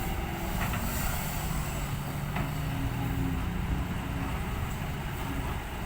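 Heavy diesel machinery running steadily: an excavator scooping soil into a ten-wheel dump truck, with a couple of faint knocks.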